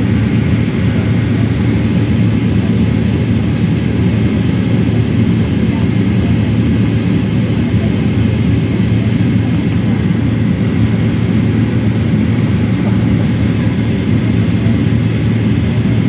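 Steady cabin noise inside a Boeing 777-300ER airliner: an even low rumble of jet engines and airflow.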